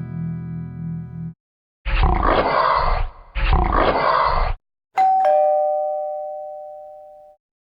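Two rough, animal-like roars of about a second each, then a two-tone ding-dong doorbell chime, a higher tone then a lower one, fading away over a couple of seconds. A held note from the previous effect stops about a second in.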